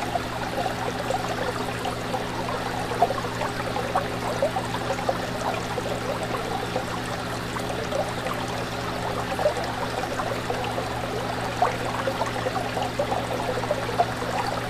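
Aquarium water bubbling and trickling, with many small splashy pops and a steady low hum underneath.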